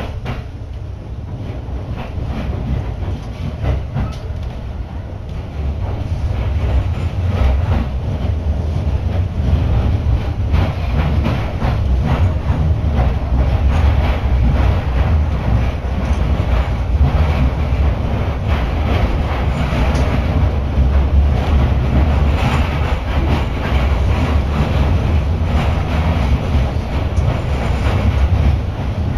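Running noise of a Gotemba Line train heard from inside the carriage: a steady low rumble of wheels on the rails with light rattling clatter, growing louder about six seconds in.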